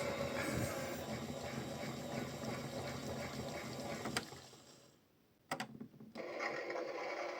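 Toy washing machine's small motor running with its drum spinning and water splashing, draining the water out. The sound fades out about four and a half seconds in, two clicks follow, and the running starts again near the end.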